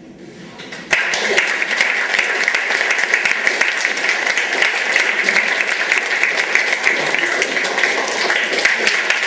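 Audience applauding, starting suddenly about a second in after a brief hush and continuing steadily as dense clapping.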